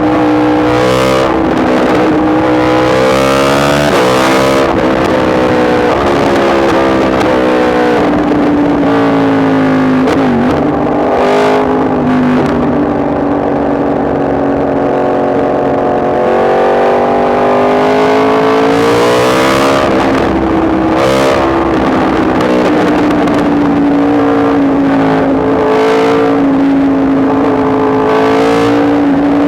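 Yamaha MT-10 SP's crossplane inline-four engine running under way. Its note sinks and rises with the throttle, dipping about a third of the way in and climbing again past the middle.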